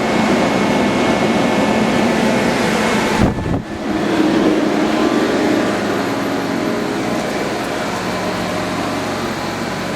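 Steady mechanical whir and hum of a Mori Seiki SL-15 CNC lathe running under power. About three seconds in, a short low thump and a brief drop break the sound, and then the steady hum carries on.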